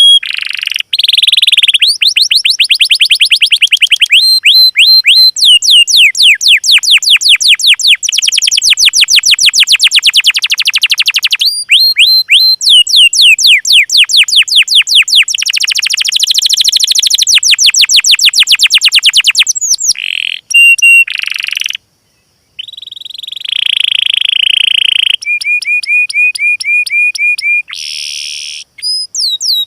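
Recorded songs of small songbirds played loud and back to back: fast runs of high, sharply down-sweeping notes and trills at several notes a second, changing pattern every few seconds, with a brief break about two-thirds of the way in.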